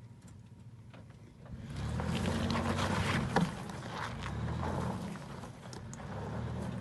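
Off-road truck engine running, getting louder about two seconds in and staying low and steady, with a single sharp knock about three and a half seconds in.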